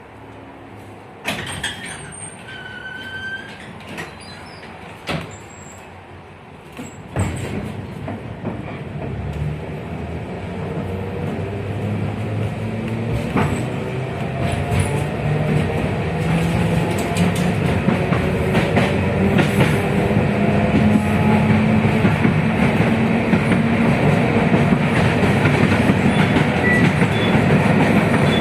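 A 71-619KT tram pulls away and accelerates, its KR-252 traction motors and contactor-transistor (KTSU) control gear whining in tones that climb steadily in pitch as speed builds, over growing wheel-on-rail noise. Several sharp clicks and knocks and a few short beeps come in the first few seconds, before it moves off.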